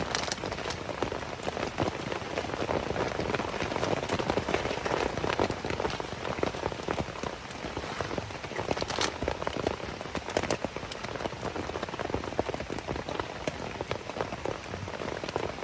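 Heavy rain beating on a tent: a steady, dense patter with sharper single drop hits scattered through it.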